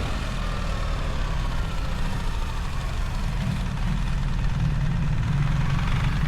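BMW R1300 GS boxer twin engine running under way, its pitch falling over the first couple of seconds, then a steadier low rumble that grows slightly louder from about halfway.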